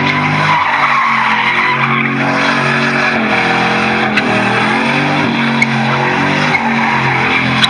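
A truck spinning its tires in a burnout: the engine revs up and down under the continuous screech of tires skidding on pavement.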